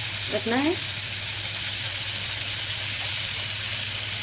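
Paneer pieces coated in mint marinade sizzling in foaming melted butter in a frying pan, a steady frying hiss as they are laid in.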